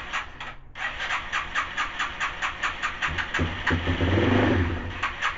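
A 2002 Yamaha TT-R dirt bike's single-cylinder four-stroke engine being turned over on its electric starter, an even chug of about five compression pulses a second. Past the halfway mark it briefly catches and runs louder for about a second and a half, firing only on brake cleaner sprayed in as starting fluid, before it falls back to cranking.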